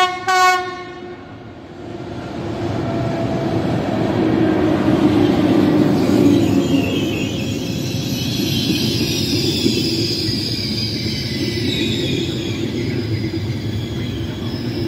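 Trenitalia Intercity train sounding a short double horn blast at the very start, then rumbling past along the platform track. A high squealing rises over the rumble about three seconds in and carries on.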